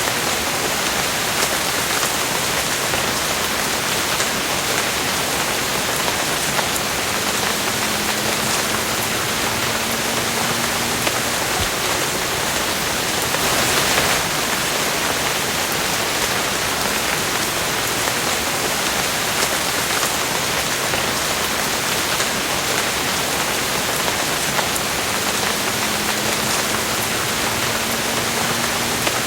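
Steady rain falling on a surface, an even, dense hiss with a brief swell about halfway through. A faint low tone rises slightly twice, each time for a few seconds.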